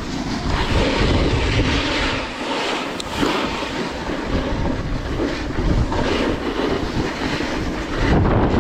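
Snowboard sliding and scraping over icy snow, a rough, uneven rumble, with wind buffeting the microphone; the rumble grows louder about eight seconds in.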